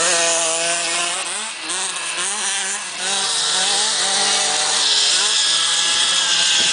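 Motocross bikes' engines revving up and dropping back again and again as they shift gears, several bikes overlapping, over a steady hiss.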